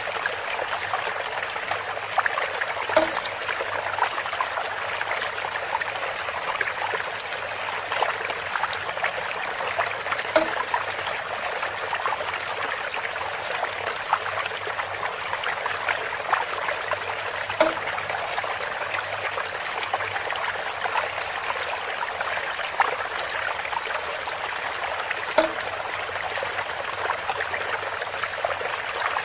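Water trickling steadily through bamboo, with a brief pitched plop or knock repeating about every seven seconds.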